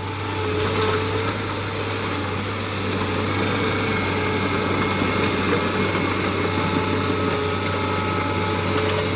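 A vehicle engine running steadily over a constant low hum, with no sudden crash or impact.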